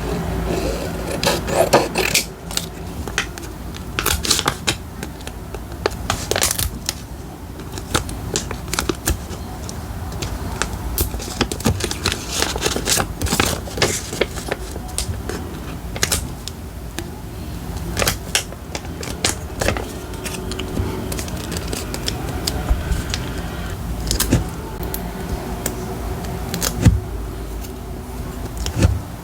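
Close-up handling of paper and journal-decorating materials on a desk: irregular small clicks, taps, crinkles and scrapes following one another throughout.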